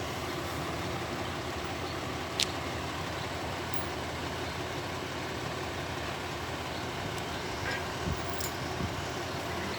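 Excavator's diesel engine running steadily at idle, with a single sharp click about two and a half seconds in and a few light knocks near the end.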